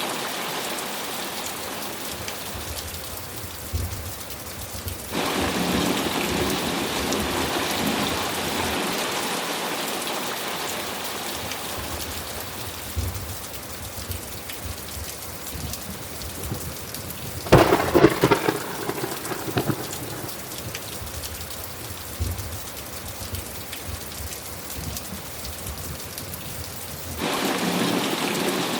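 Steady heavy rain with thunder. The rain grows suddenly louder a few seconds in and again near the end. Past the middle, one sharp, loud thunderclap is followed by a couple of seconds of rumbling, with a few fainter low rumbles elsewhere.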